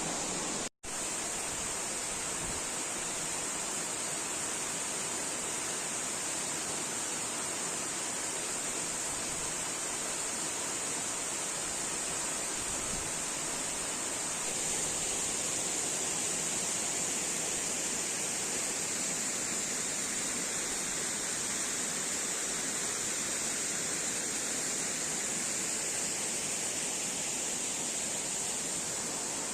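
Waterfall: a steady, noisy rush of falling water, with a constant high-pitched hiss over it. The sound cuts out for an instant about a second in.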